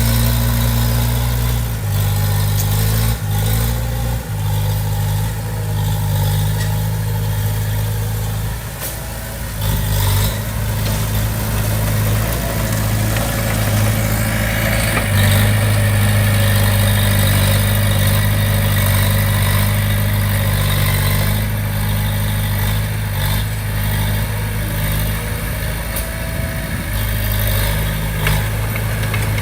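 Komatsu D20P bulldozer's diesel engine running steadily under work, with a couple of sharp knocks about three and four seconds in and a brief dip in engine note about nine seconds in.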